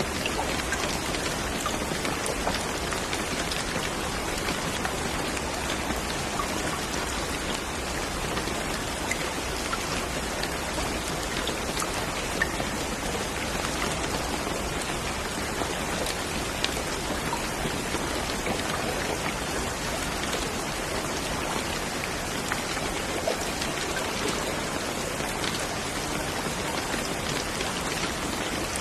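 Steady rain falling, an even hiss with scattered individual drops ticking, a few slightly louder ones now and then.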